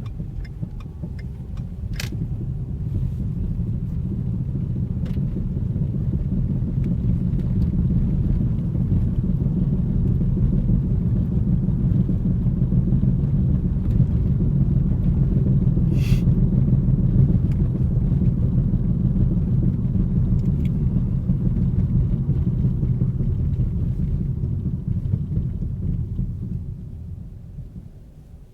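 2010 Ford Focus on the move with a low droning rumble from the right rear wheel. It grows louder over the first several seconds, holds steady, then dies down near the end. The owner places it at the right rear tyre and suspects a worn wheel bearing.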